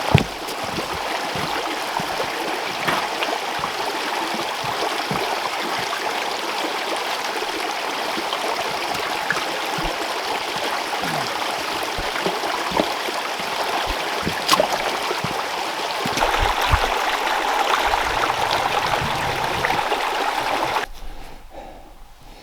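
Creek water flowing steadily, with a few faint knocks. The water sound cuts off abruptly near the end.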